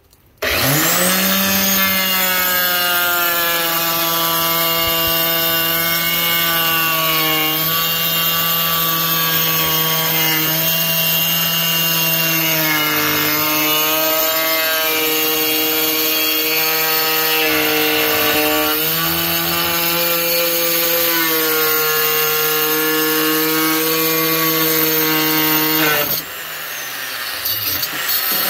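Workforce wet tile saw cutting ceramic tile. The motor starts about half a second in and runs with a steady whine, its pitch sagging now and then as the blade bites into the tile. Near the end it winds down briefly and then picks up again.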